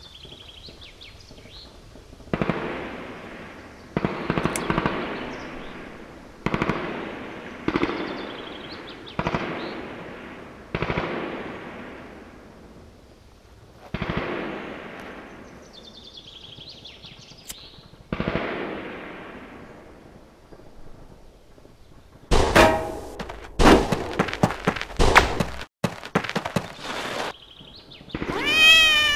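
Single gunshots, eight of them spaced one to four seconds apart, each with a long echoing tail. Then a few seconds of loud rapid gunfire, and right at the end a cat's meow.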